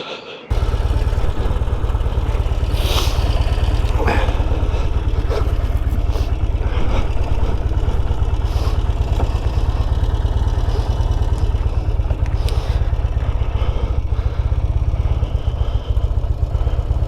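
Norton Commando 850 Mk2 parallel-twin engine running steadily with a dense low beat, cutting in sharply about half a second in, with a couple of brief clicks a few seconds later.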